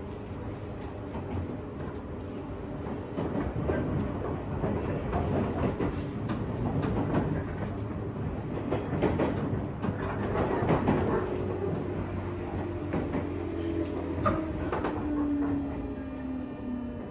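Running sound inside a JR West 201 series commuter train's motor car, with wheels clattering and knocking over the rails. In the last five seconds a whine from the thyristor-chopper-controlled traction motors falls steadily in pitch as the train slows.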